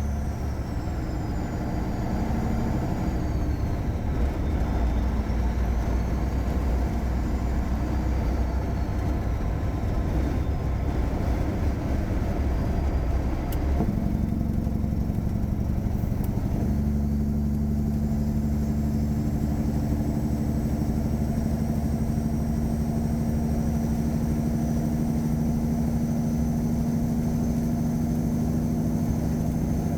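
Tuned Caterpillar 3406E inline-six diesel in a 1999 Freightliner Classic running steadily under way. Its note changes about halfway through and then holds a steady pitch.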